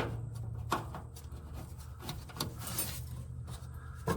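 A few scattered light clicks and taps from hand work on parts and fasteners, over a steady low hum.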